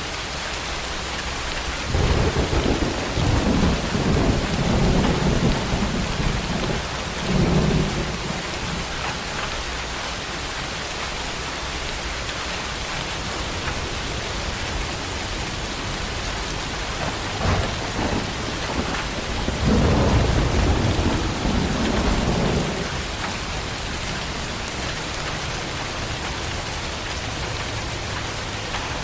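Steady heavy rain hissing, with thunder rumbling: a long rolling peal about two seconds in that lasts some six seconds, a short one in the middle, and another rolling peal lasting about three seconds just before two-thirds of the way through.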